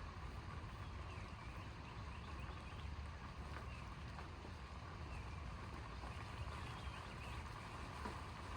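Steady outdoor background noise: a low, even rumble with a faint steady hum above it and a few faint chirps, with no thunderclap or rising roll of thunder.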